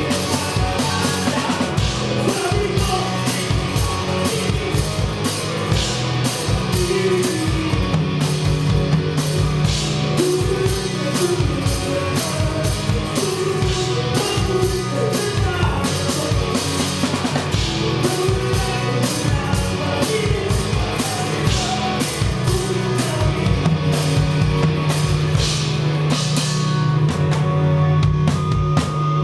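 Live rock band playing a song: a drum kit keeps a fast steady beat over bass and guitar, with a singer's voice on top. It is heard from the drummer's seat, so the drums are close and loud.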